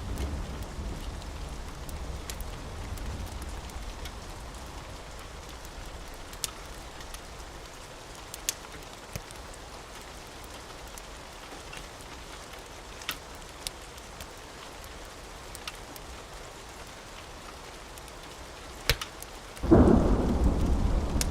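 Steady rain with a low thunder rumble dying away in the first few seconds, then a loud thunderclap breaking in suddenly near the end. Sharp crackles from a wood fire pop now and then over the rain.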